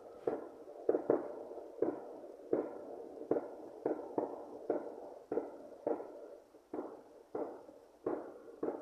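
A long run of evenly spaced, explosion-like bangs, about three every two seconds, each with a short ringing decay. The source is unexplained; the uploader hears them as strange explosions coming from the sky.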